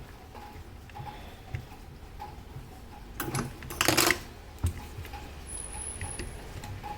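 Mauthe grandfather clock movement ticking steadily, with a louder, brief clatter about three seconds in.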